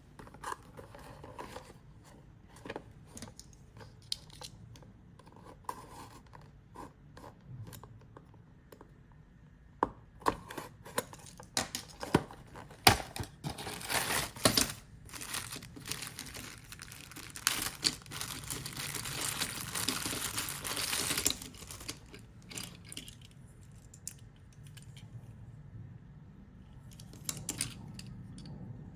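Toy packaging being opened by hand: scattered clicks and handling noises, a run of sharp clicks and taps midway, then several seconds of continuous tearing and crinkling of plastic and cardboard.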